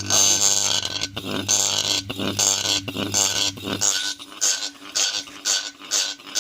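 Ceiling fan motor energised through a series test lamp, giving a steady electrical hum while the rotor grinds or scrapes about twice a second. The hum cuts off about four seconds in and the scraping goes on. The fan will not run freely, which the repairer puts down to a gone bearing or a damaged shaft.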